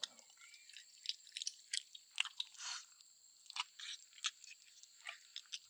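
A person chewing and biting on a braised pig's trotter: faint, irregular clicks and short crunchy bits of mouth noise.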